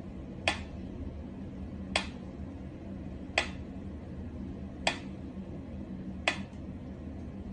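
A sharp click repeating evenly about every second and a half over a steady low hum.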